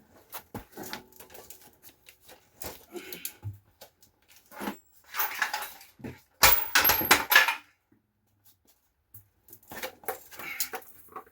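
Metal tools being handled, clinking and clattering in irregular bursts, with the loudest run of sharp clanks about six and a half seconds in.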